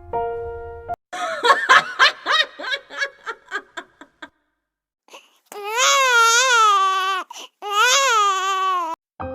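A burst of rapid, high-pitched mocking laughter lasting about three seconds. After a short silence come two long, wavering wailing cries. Soft piano music plays for about the first second.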